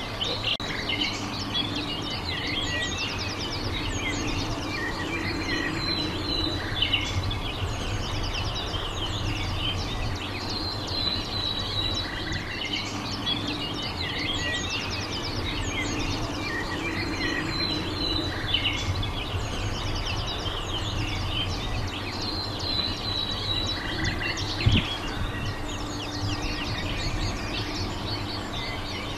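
Small birds chirping and trilling on and off over steady low background noise outdoors, with a single knock near the end.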